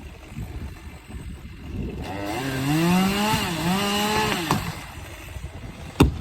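Two-stroke chainsaw ticking over, then revved up for about two seconds. Its note rises, dips briefly and holds before dropping back to idle. A sharp knock comes near the end.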